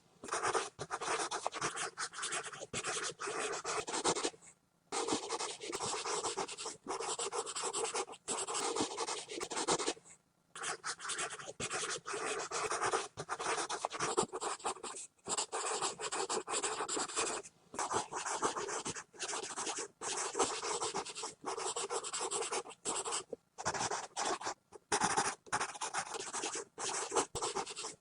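Pencil scribbling hard and fast on paper, a continuous scratchy rasp made of quick strokes, broken by brief pauses about four and ten seconds in.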